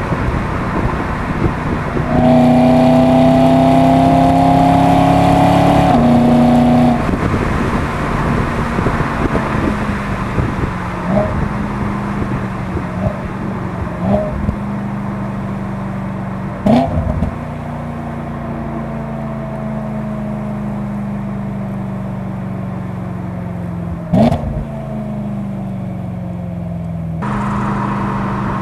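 BMW E92 M3's S65 naturally aspirated 4.0-litre V8 through an M Performance exhaust, heard from outside while driving. It pulls hard with a rising note for about five seconds a couple of seconds in, then lifts off and runs down slowly with a falling note, broken by a few sharp cracks. Near the end it comes back onto light throttle.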